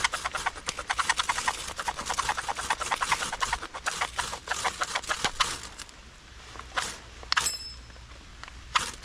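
Rapid scraping strikes, about ten a second, for about five and a half seconds, then a few separate sharp clicks: a ferro rod being struck to throw sparks onto pine fatwood shavings while lighting a fire.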